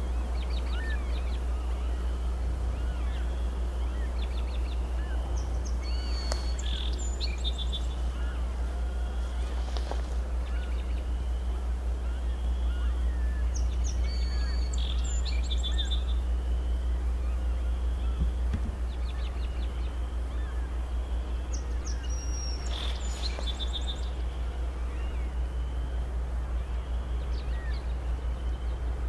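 Steady low rumble of distant diesel freight locomotives approaching, with songbirds chirping and trilling over it again and again.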